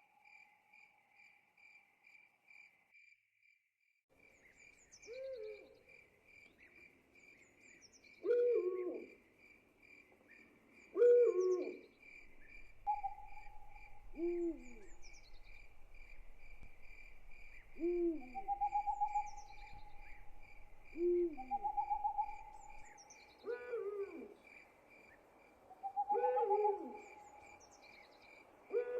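Owl hooting, a short, falling hoot about every three seconds from about five seconds in, over crickets chirping in a steady pulsing rhythm. A long, steady trill at a middle pitch comes and goes in the background.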